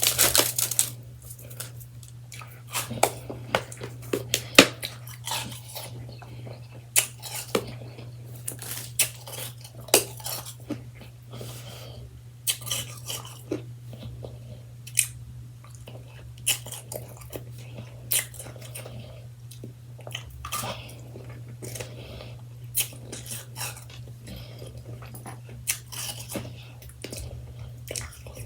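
A person chewing mouthfuls of freshly shaved ice: soft, irregular crunches, a few to several a second with short pauses between, over a steady low hum.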